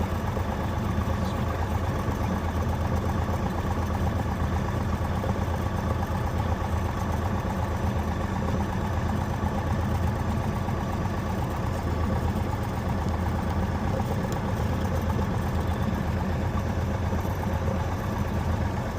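Cessna 172's piston engine and propeller running at a steady drone, heard from inside the cockpit during takeoff and climb.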